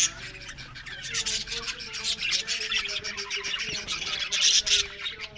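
A colony of budgerigars in an aviary, many birds chattering and chirping over one another in a dense, continuous warble.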